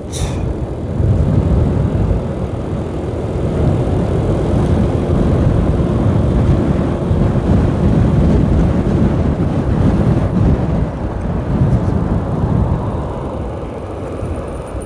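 A 125cc learner motorcycle being ridden, its engine running under heavy wind rumble on the microphone; the rumble eases a little near the end.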